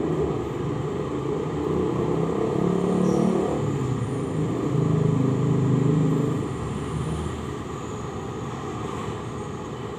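A motor vehicle's engine running past, growing louder in the middle and then fading.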